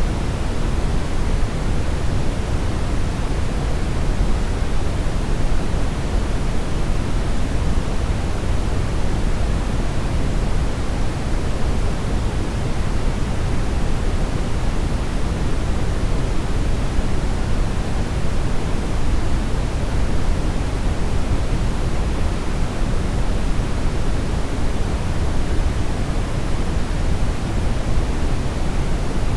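Steady brown noise: a constant, even rush weighted toward the low end, with no changes.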